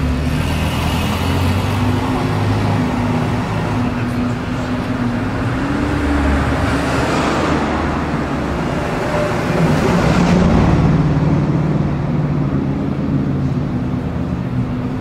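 Heavily tuned Nissan GT-R's twin-turbo V6 running at low speed and idling, with a short rise in revs about ten seconds in, over light street traffic.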